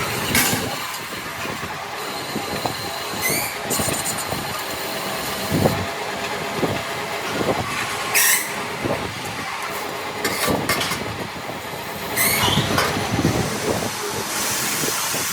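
Metalworking workshop machinery running with a dense metallic clatter. Short squeals come about every four seconds.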